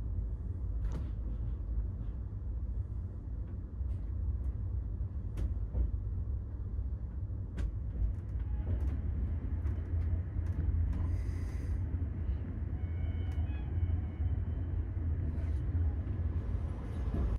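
A train running, heard from inside an LHB-Tejas Rajdhani sleeper coach: a steady low rumble with scattered sharp clicks and knocks.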